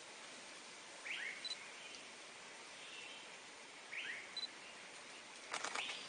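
Forest ambience with a steady hiss, over which a small bird gives a short two-note chirp twice, about three seconds apart, each followed by a brief high whistle. Near the end comes a quick rattle of sharp clicks.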